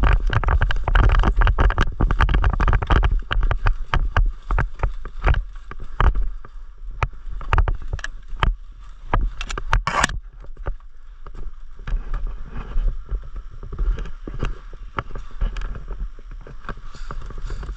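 Movement noise from a player on the move: a rapid run of clicks and knocks, gear and equipment jostling against a worn camera, with low rumble on the microphone, busiest in the first few seconds and thinning out after.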